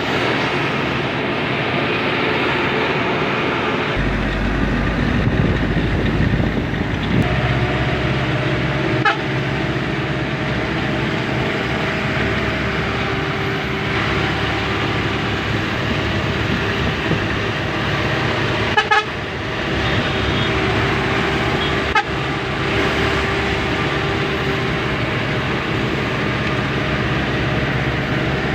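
Truck engine running steadily under way with road noise, its low rumble strengthening about four seconds in, and a few sharp knocks along the way.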